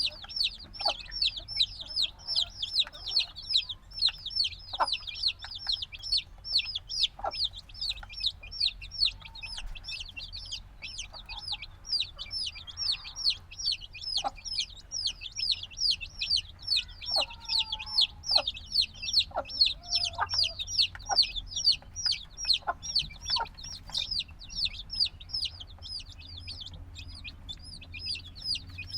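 A group of newly hatched chicks peeping constantly: many short, high, downward-sweeping cheeps, several a second, overlapping with no pause.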